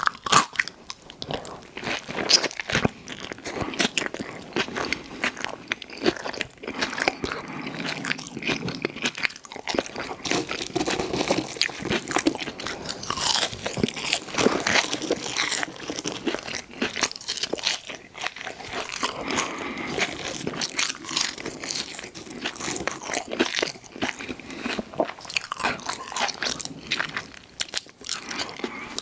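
Close-miked ASMR eating sounds: a person biting and chewing crunchy food, with a continuous run of wet crunches and mouth clicks.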